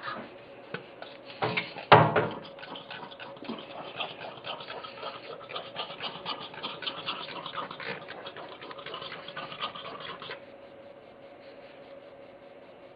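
Aerosol foaming cleaner sprayed inside a microwave: a sputtering, crackling hiss for about six seconds that cuts off suddenly. Before it, about two seconds in, comes a couple of sharp knocks.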